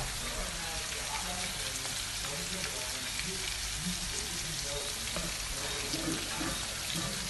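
Onions and seasonings frying in hot curry oil in a pot, with a steady crackling sizzle.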